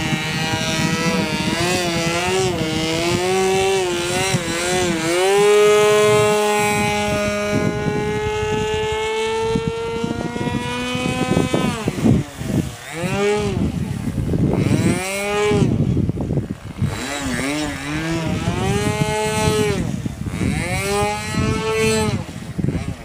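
RC model airplane's .46-size two-stroke glow engine turning a 12x4 propeller, running at high speed. The pitch wavers at first, holds steady for several seconds, then in the second half swoops down and back up again and again.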